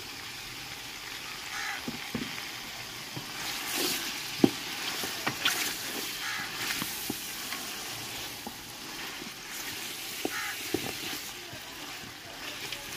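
Chicken, onions and freshly added chopped tomatoes sizzling in a large aluminium pot, stirred with a wooden spatula that scrapes and knocks against the pot now and then; the sharpest knock comes about four and a half seconds in.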